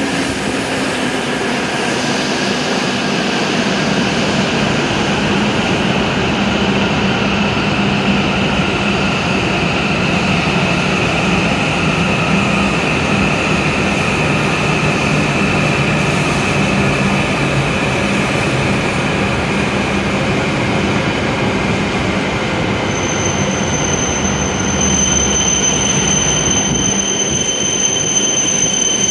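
W7 series Shinkansen train rolling into the platform and slowing: a steady rushing of wheels and running gear, its tones sinking slowly as the speed falls. About three-quarters of the way through, a high, steady squeal sets in as the train draws to a stop.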